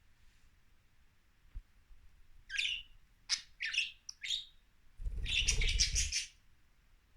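Pet budgerigars chirping: several short high chirps in quick succession, then a louder burst of chatter lasting about a second, with a low rumble beneath it.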